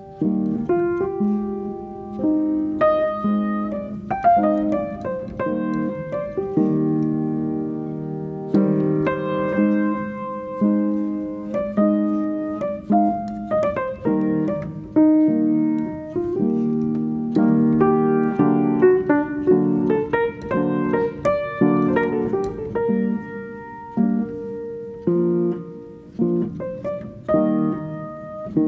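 Background piano music: a solo piano playing a flowing melody over sustained chords.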